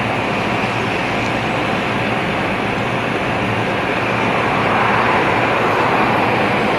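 Jet airliner engines, a steady rushing roar that grows a little louder about two-thirds of the way through.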